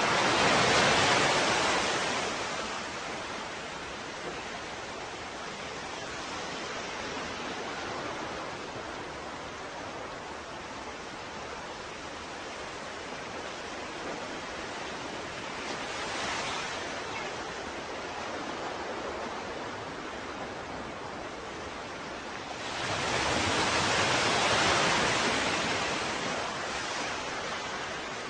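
Ocean waves washing onto a shore: a steady surf hiss with a wave breaking right at the start, a small one in the middle and a bigger one about three-quarters of the way through, each swelling and fading over a few seconds.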